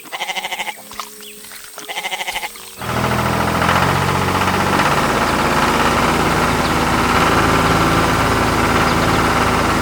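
Two short wavering sheep-like bleats over light background music. About three seconds in, a loud, steady, engine-like running noise takes over and carries on.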